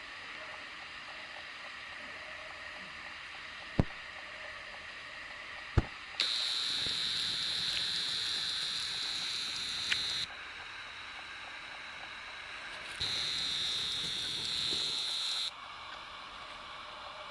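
Sony RX100 V's lens zoom motor whining, picked up by the camera's own microphone: a loud, steady high whine that starts and stops abruptly, running about four seconds, then again for about two and a half seconds. Two sharp clicks come just before, over a steady hiss.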